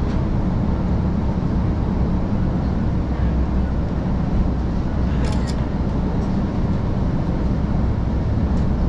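Diesel railcar running and pulling away, heard from inside the passenger car: a steady low engine drone with wheel-on-rail noise, and a couple of short clicks about five seconds in.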